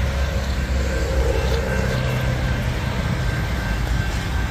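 Steady low rumble of an approaching diesel-hauled freight train at an active railroad grade crossing, with the crossing's warning bell ringing faintly over it.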